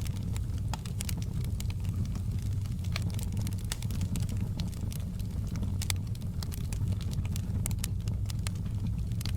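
Wood logs burning in a fireplace, crackling with many irregular sharp snaps over a steady low rumble.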